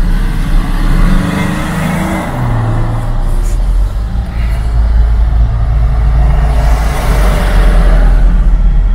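Street traffic, cars driving past over a constant low rumble. An engine hum drops in pitch about two seconds in, and a louder vehicle swells past near the end.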